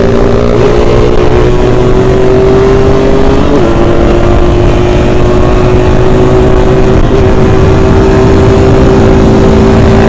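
Yamaha RX-King's two-stroke single-cylinder engine running loud at high, steady revs under way, with brief wavers in pitch about a second in, around three and a half seconds in and around seven seconds in.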